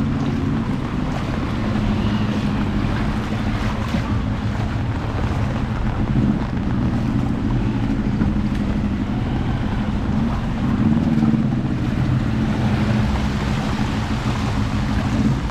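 An engine running steadily, over a constant hiss of rain and flood water.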